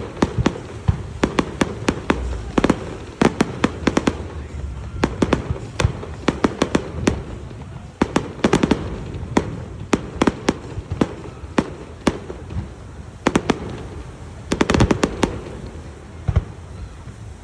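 Fireworks display: a steady barrage of sharp bangs and crackles, irregularly spaced and often in quick clusters, with heavier groups of bursts about halfway through and near the end.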